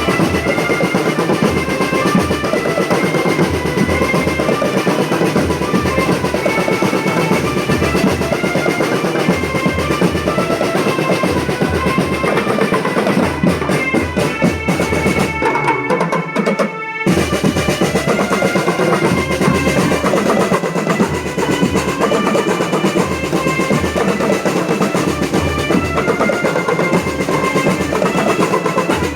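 School marching drum band playing: snare drums and bass drums with rolls under a melody of high pitched notes. The playing breaks off briefly a little past halfway, then carries on.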